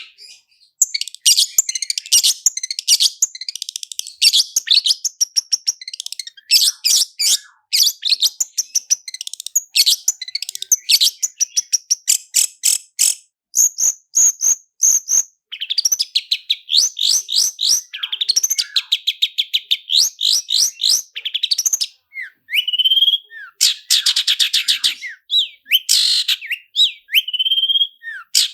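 Long-tailed shrike (cendet) singing a fast, nearly continuous song of rapid trills and quickly repeated high notes, broken by only short pauses and studded with mimicked phrases of other birds.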